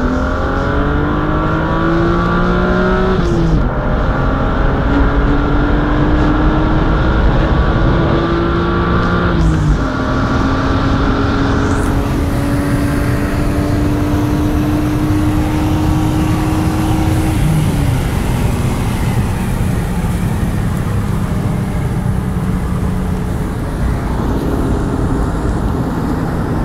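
BMW M3 replica's engine pulling hard through the gears: the pitch climbs steadily and drops sharply at three gear changes, a few seconds in, near ten seconds and past halfway, then holds a steadier note.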